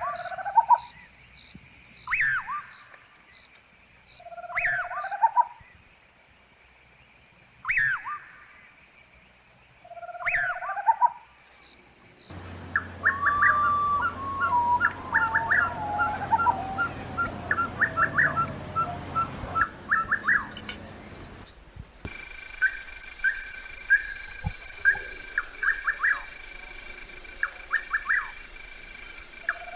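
Birds calling: one bird repeats a sweeping call about every two and a half seconds, then other birds chirp and whistle in quick runs. In the last part a steady high tone runs under the chirps.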